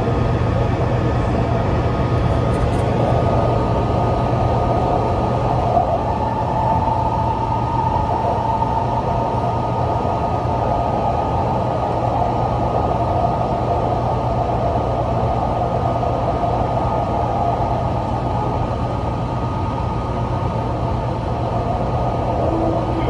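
A Taichung MRT Green Line metro train runs between stations with a steady rumble of wheels and running gear. A motor whine sits in the rumble and rises slightly in pitch about six seconds in.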